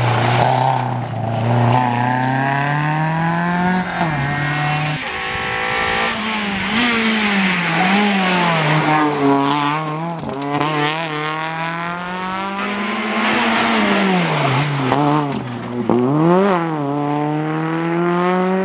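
Rally car engine at full throttle, its pitch climbing through the gears and dropping sharply several times as it lifts and brakes for corners.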